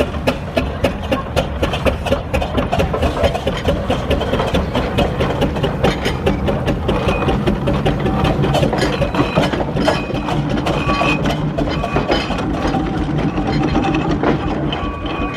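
Steam traction engine on the move, running with a rapid, regular clatter of about four beats a second over a steady mechanical rumble.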